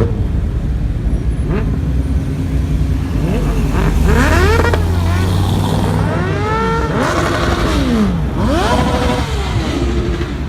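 Car engine revved repeatedly, pitch climbing and dropping back about half a dozen times over a steady low engine rumble.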